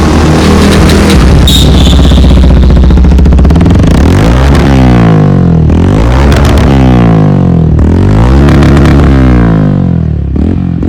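Bajaj Pulsar N160's single-cylinder engine running through a newly fitted aftermarket exhaust: a steady idle for the first few seconds, then revved about three times, the note rising and falling with each blip before settling back down near the end.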